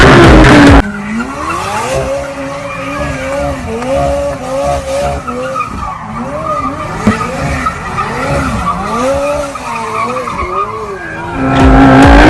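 Formula One racing engine revving, loud and rising at first. It then drops in level, and its pitch swings up and down again and again as the revs rise and fall, before it comes back loud near the end.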